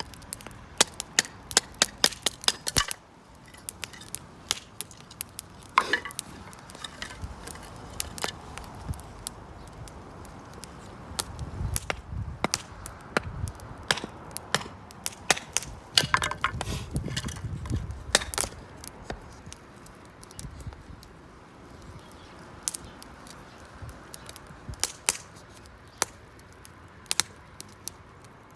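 Wood campfire crackling, with many sharp pops, thickest in the first three seconds and again later, over a soft steady hiss of burning. A low rumble rises twice, for a couple of seconds each time.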